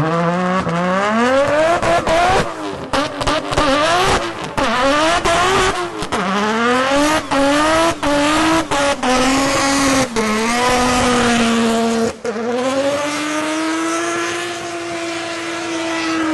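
A car engine revving hard as the car accelerates away, its pitch climbing again and again with brief cuts in between, then held at a steady high pitch for the last few seconds.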